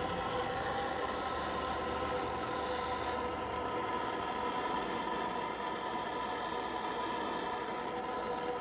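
Propane torch burning steadily while it preheats a cast iron exhaust manifold, heard together with a steady humming tone. A low rumble fades out a little past halfway.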